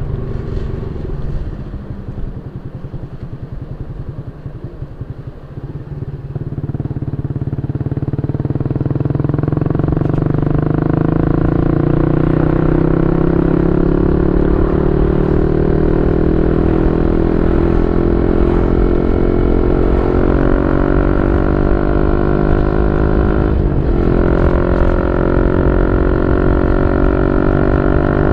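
Yamaha Y15ZR's 150cc single-cylinder four-stroke engine running through a YYPANG SD3 aftermarket exhaust: low and quieter at first, then louder, its pitch climbing slowly for about fifteen seconds before holding steady.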